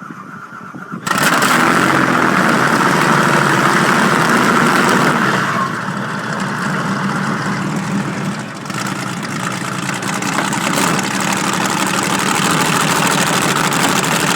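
Rolls-Royce Merlin V12 aircraft engine in a home-built road special starting up: it catches about a second in and then runs loud and steady.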